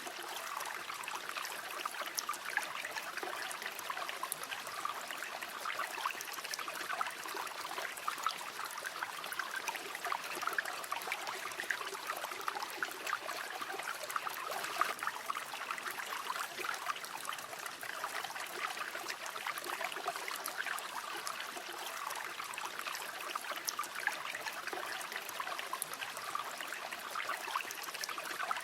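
A river flowing: a steady, even babble of running water, made up of many small splashes and gurgles.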